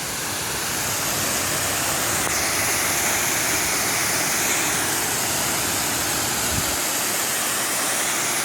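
Waterfall on Arbuckle Creek rushing steadily, growing louder over the first second or two as it is approached, then holding steady.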